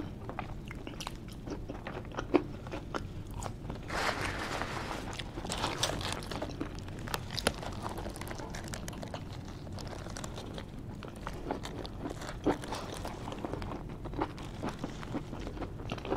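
Close-up eating sounds: biting into and chewing a cheesesteak sandwich, with small crunches and the crinkle of its foil wrapper. The crinkling and crunching are busiest about four to six seconds in.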